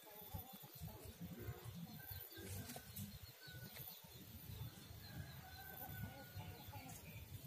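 Faint bird calls over a low, steady rumble.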